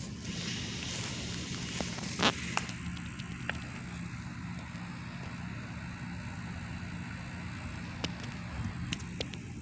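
Steady low mechanical grinding drone from industrial machinery, with scattered clicks and one sharp crack about two seconds in.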